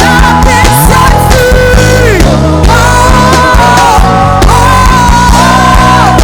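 Worship band playing loud full-band music: a steady low end and drum hits under long held melody notes that slide from one pitch to the next.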